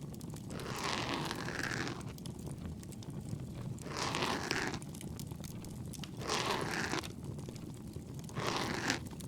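Binaural ear-cleaning sound: an ear pick scraping inside the ear in four slow strokes, about two seconds apart, over the low, steady crackle of a bonfire.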